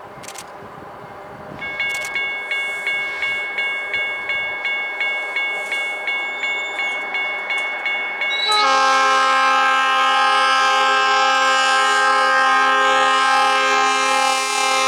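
A diesel freight locomotive runs on the approach, and a bell starts ringing, about three strikes a second. About eight seconds in, the locomotive's air horn sounds one long, loud chord of several tones.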